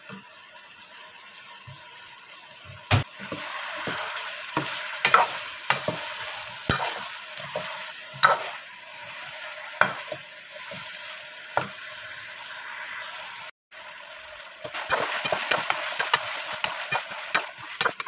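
Chicken pieces sizzling in hot oil in a metal kadai, browning with whole spices, while a metal ladle stirs them and scrapes and knocks against the pan every second or two.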